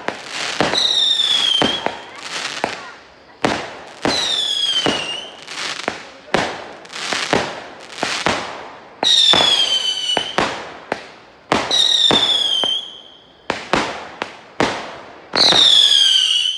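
Fireworks going off: a rapid run of sharp bangs, with five whistling shells, each a high whistle of about a second that drops a little in pitch before the burst.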